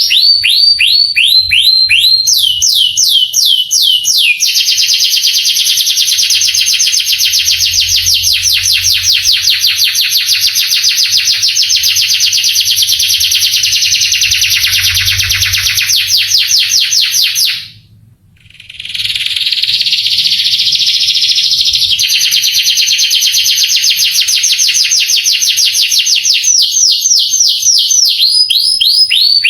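Male canary singing a long song. Runs of falling whistled notes repeat several times a second, then a fast, dense trill. About eighteen seconds in the song breaks off briefly, then resumes with more trills and runs of falling notes.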